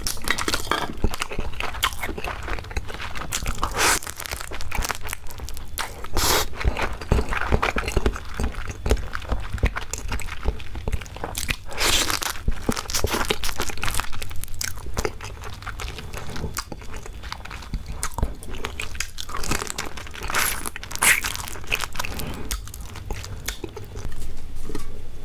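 Close-miked eating of marinated raw crab: shell cracking and crunching, wet biting, sucking and chewing in irregular bursts, over a steady low hum.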